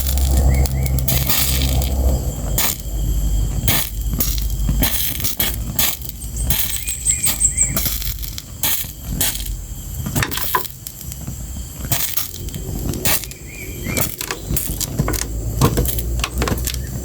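Fire crackling, with many sharp, irregular pops and snaps, and a low rumble under it for the first couple of seconds.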